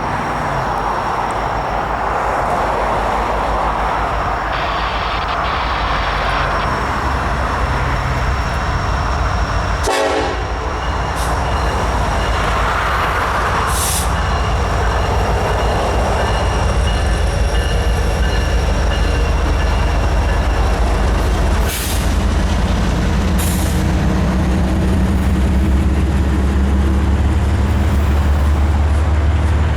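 Diesel locomotives of a Norfolk Southern intermodal train, an SD70ACe leading and an ES40DC trailing, approaching with a steady rumble whose low engine note grows louder toward the end. A few brief knocks sound along the way.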